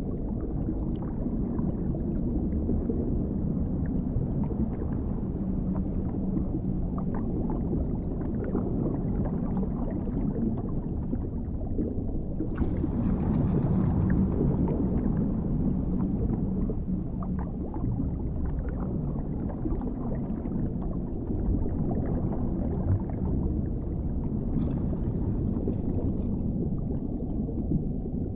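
Underwater ambience: a steady deep, muffled rumble with scattered faint ticks, briefly swelling with a brighter hiss around the middle and again near the end.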